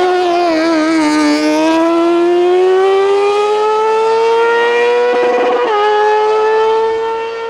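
Hillclimb race car engine held at high revs, its note climbing slowly and steadily, then dipping a little about five and a half seconds in and holding.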